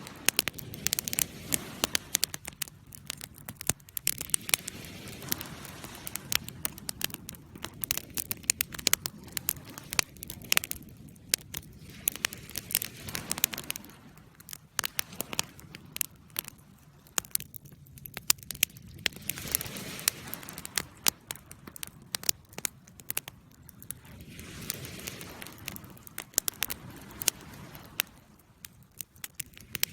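Wood fire burning in a fireplace, crackling with many sharp pops and snaps, over a soft rushing noise that swells and fades every few seconds.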